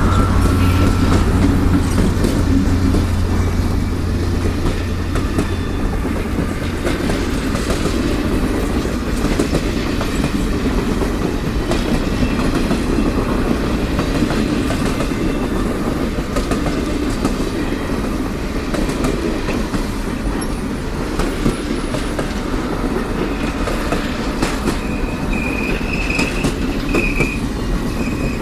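A train rolling past with steady wheel clatter and rumble. A low engine drone fades in the first few seconds, and the wheels squeal briefly a few seconds before the end.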